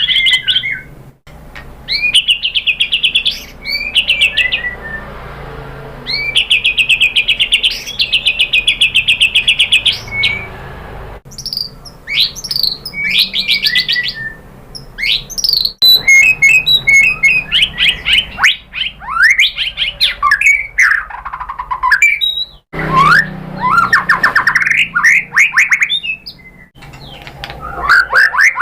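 White-rumped shama (murai batu) singing loudly. Its song is a run of rapid trilled phrases, each a second or two long, mixed with sharp rising and falling whistled notes, with short pauses between phrases.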